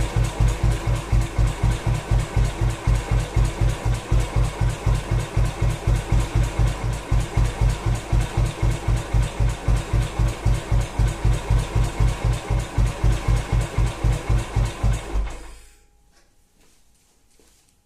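Moto Guzzi Nuovo Falcone single-cylinder engine idling very low, at about 450 rpm, with slow, even firing beats. About fifteen seconds in it stalls and dies away to near silence.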